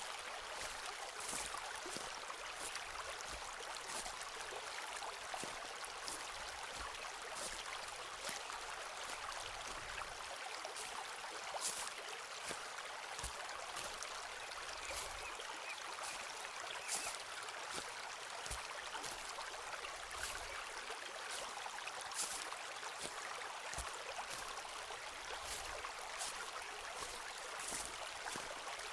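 Footsteps on a forest path, heard as irregular crisp crunches and light thuds, over a steady rush of running water.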